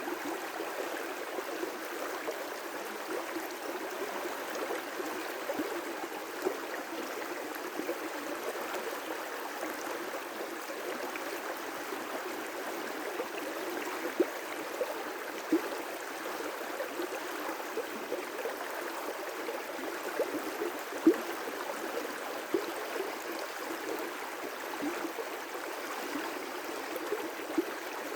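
River rapids rushing steadily, with scattered brief louder splashes and gurgles, the loudest about three-quarters of the way through.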